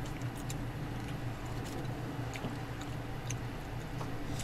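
Quiet eating sounds: chewing and a few light clicks, over a steady low hum.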